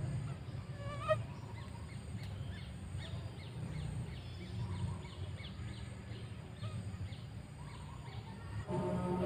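Quail calls outdoors: many short chirps repeated a few times a second, with a louder call about a second in, over a steady low hum. Music comes in near the end.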